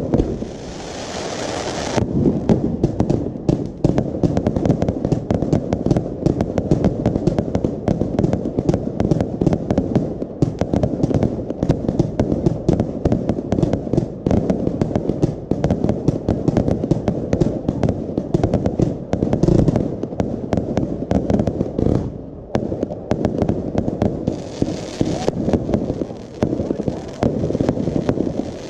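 Fireworks display: a dense, continuous barrage of aerial shell bursts and reports, many per second, with a short lull about three-quarters of the way through. A hissing runs under the bangs in the first two seconds.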